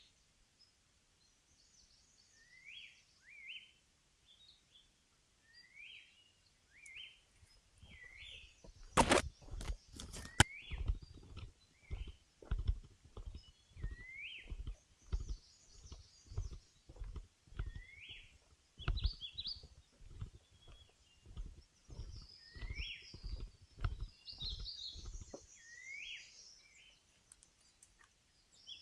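A bird repeats a short rising call every second or two, with other birds chirping higher up. About a third of the way in, footsteps on the forest trail start at an even walking pace and stop near the end, opening with two sharp, louder cracks.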